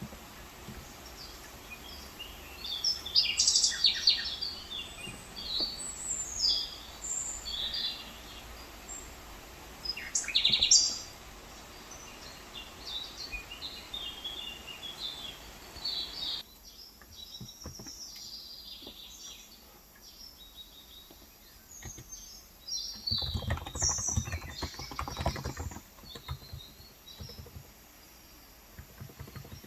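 Small birds chirping and calling throughout, with typing on a Cox Endeavor electrostatic capacitive (35 g, tenkeyless) keyboard, the keystrokes thickest in a quick run of clicks near the end.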